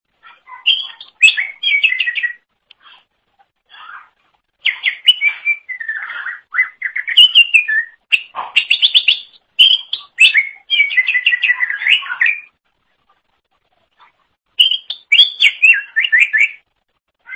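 Green leafbird (cucak ijo) singing in a loud, full song: quick runs of rising and falling whistled notes strung into phrases several seconds long, broken by short gaps. It pauses for about two seconds near the end, then sings one more phrase.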